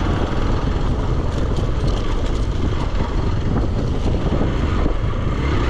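Motorcycle engine running with wind rumbling over the microphone while riding a dirt road.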